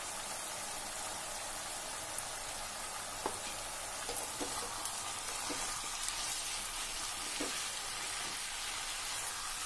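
Spinach and mixed vegetables sizzling steadily in oil in a kadai as the last of their liquid cooks off, with a few faint clicks and scrapes as a spatula stirs the mix.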